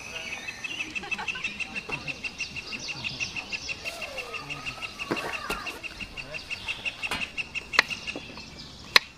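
A bird repeating one high chirp several times a second in a steady run that stops about eight seconds in. Near the end come a few sharp knocks of a knife on a wooden cutting board.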